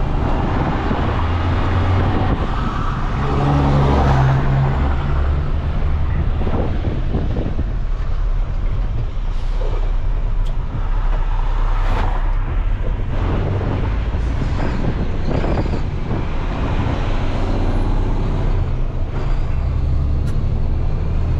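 Semi truck's diesel engine running steadily while driving, pulling a heavy trailer, with a few sharp clicks.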